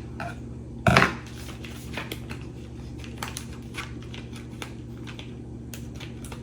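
Kitchen handling of a plastic-wrapped salami package: light clicks and rustles, with one louder sharp knock about a second in, over a steady low hum.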